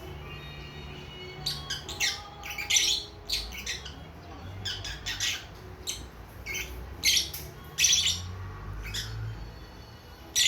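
Young lovebirds, a few months old, chirping and squawking: a quick run of short, sharp, high calls that starts about a second and a half in and thins out near the end, with one last call at the very end.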